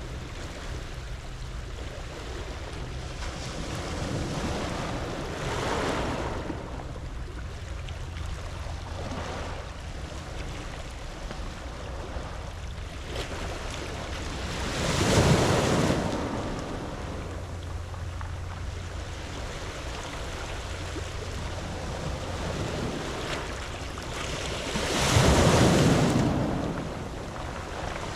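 Waves breaking on a pebble beach. Two smaller waves come in early, and two louder ones break about halfway through and near the end.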